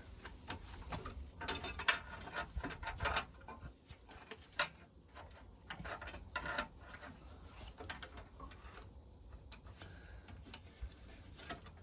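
Soldered engine oil pipes clinking, rattling and scraping against the crankcase as they are wiggled and worked free by hand, in irregular metallic clicks and knocks; the sharpest knock comes about 2 s in.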